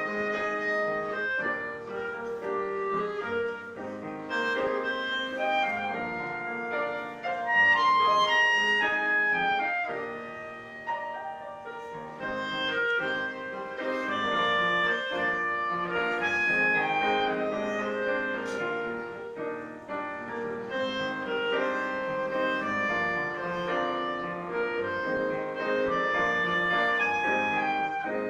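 Instrumental duo music: a melody instrument playing held notes over piano accompaniment.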